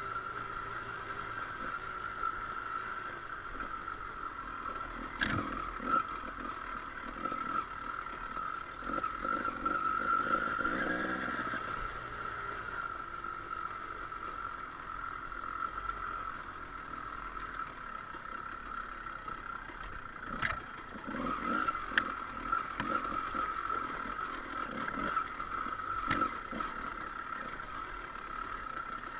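Trail motorcycle running along a dirt trail, a steady engine note with the engine rising and falling briefly in the middle, and a few sharp knocks and clatter from the bike over rough ground.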